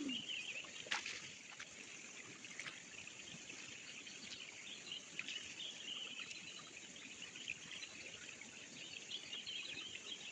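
Riverside nature ambience: a continuous, faint high-pitched chirring of insects or birds over soft running-water noise, with a few sharp clicks.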